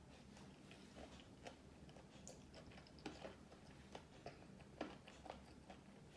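Near silence broken by faint, irregular small clicks: the mouth sounds of quiet chewing.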